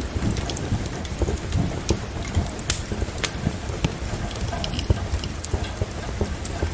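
Steady rain mixed with a wood fire crackling, with sharp pops and snaps scattered throughout over a low rumble.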